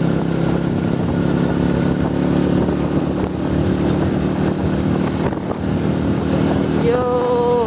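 Motorcycle engine running steadily under way, with road noise. Near the end a vehicle horn sounds once, briefly.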